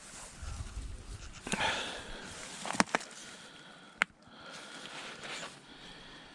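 Quiet rustling and shuffling of someone moving around on foot, with a close pair of sharp clicks near the middle and a single click about four seconds in.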